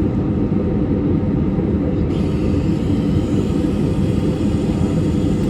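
Steady low rumble of a passenger airliner's engines and airflow heard inside the cabin, running evenly with no change.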